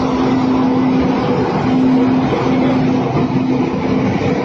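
A train running past at close range: a loud, steady rush and rattle, with a low hum that cuts out and comes back several times.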